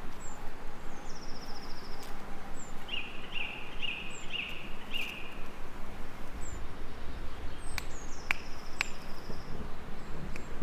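Wild birds singing over a steady hiss of gentle rain: short high chirps repeating about every second and a half, a fast trill twice, and a run of five lower whistled notes in the middle. A few sharp clicks come near the end.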